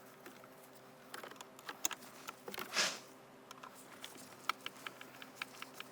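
Light, irregular clicking of a T20 Torx driver backing out small screws around a car's ignition trim, with a brief scraping hiss about three seconds in.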